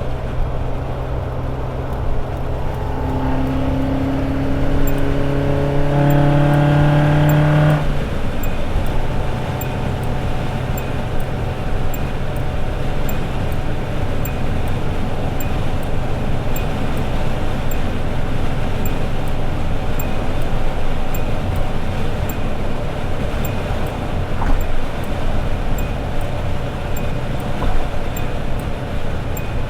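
Toyota AE86 Sprinter Trueno's four-cylinder engine pulling hard with a rising pitch for several seconds. It drops sharply about eight seconds in, as at a gear change or lift-off, then settles into a steady cruise drone with road noise.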